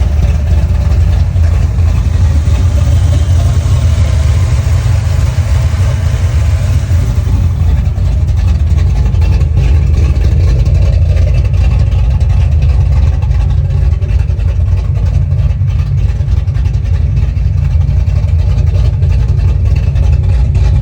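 383 stroker small-block Chevy V8 running steadily, a deep even engine sound with no clear revs.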